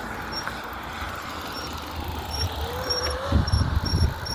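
Electric bike riding over a dirt trail: wind buffeting the microphone and tyre rumble, growing heavier about halfway through, with a brief faint whine. A faint high chirp repeats about two or three times a second.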